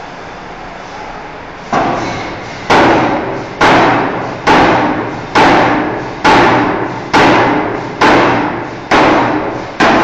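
Forging hammer striking a steel bar, ten heavy blows about one a second, each with a short ringing decay, starting a little under two seconds in.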